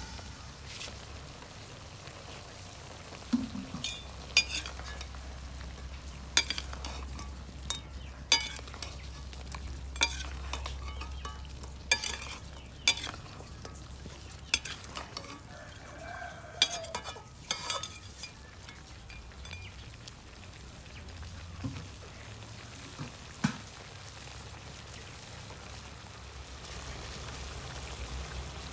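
Chicken pieces sizzling as they fry in a karahi, with a ladle stirring and knocking against the metal pan every second or two for a stretch, then the sizzle carries on alone.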